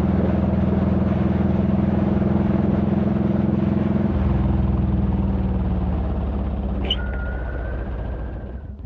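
Honda VTX1800's 1.8-litre V-twin running under way, with wind rush. About four seconds in the engine note changes, then it falls and grows quieter. A thin, steady high whine sounds over it near the end.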